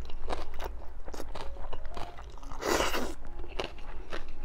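A person chewing a mouthful of ramen noodles close to the microphone, with many small wet mouth clicks, and one short slurp about three seconds in.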